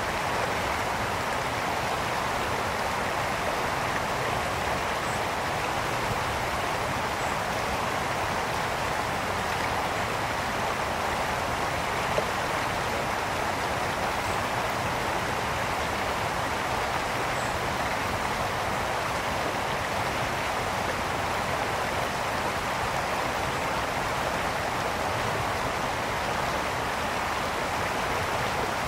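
Mountain brook flowing over stones: a steady rushing and babbling of water.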